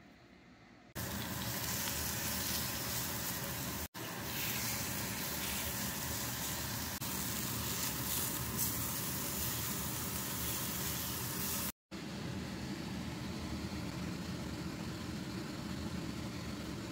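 Seasoned chicken breasts frying in a cast-iron skillet: a steady, loud sizzle that starts abruptly about a second in and breaks off twice for a moment.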